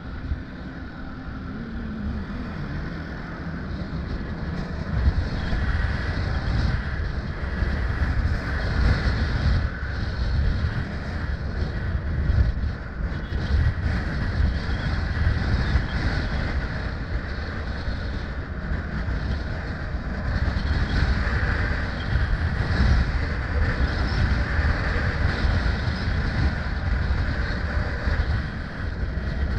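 Wind rushing and buffeting against the microphone on a moving motorbike, with road and engine noise beneath. It builds over the first few seconds as the bike picks up speed, then holds steady.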